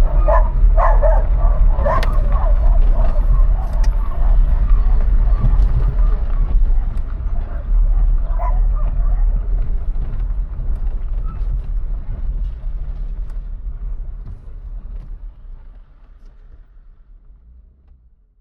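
Dogs barking and yelping over a steady low rumble, the barks coming mostly in the first few seconds and once more midway; everything fades out near the end.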